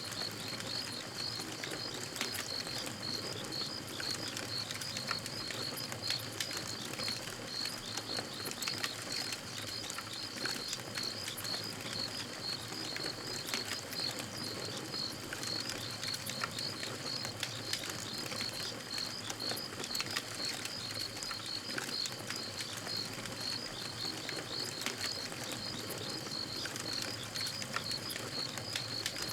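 Campfire crackling with scattered sharp pops, under a steady high-pitched chirping from night wildlife that pulses about three times a second.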